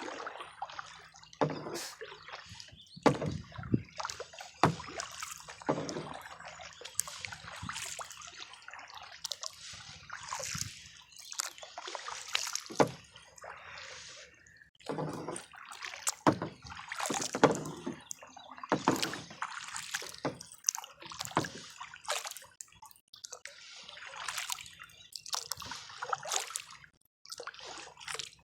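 Kayak paddle strokes: the blades dipping and splashing in the water, with dripping and sloshing between strokes, coming irregularly every second or two.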